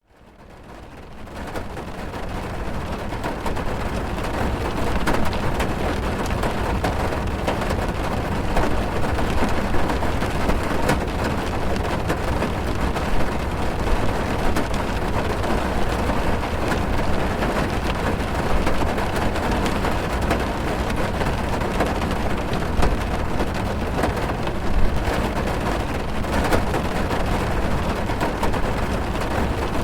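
Steady heavy rain drumming on a car's roof and windows, heard from inside the car: a dense patter of drops with a low rumble, fading in over the first few seconds.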